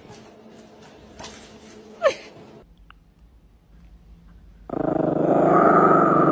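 A dog growling, a loud rough growl that starts near the end. Before it, about two seconds in, comes one short cry that falls in pitch.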